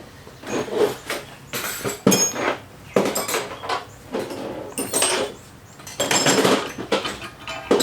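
Loose metal engine parts clanking and clattering against each other and the work surface in about half a dozen separate bursts, some with a short metallic ring, as the engine block is stripped.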